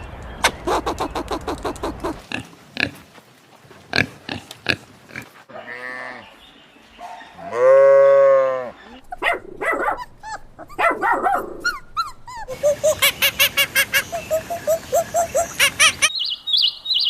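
Farm animals calling one after another: short grunts early on, a loud, drawn-out call of about a second near the middle, then a quick run of repeated calls, about four or five a second, ending in a few high chirps.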